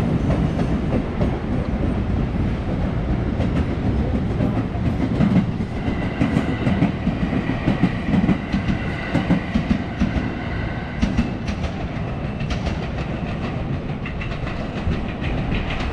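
Electric trains passing close by: a steady rumble with wheels clacking over the rail joints, the clacks coming thickest in the second half, and a high steady whine for several seconds in the middle.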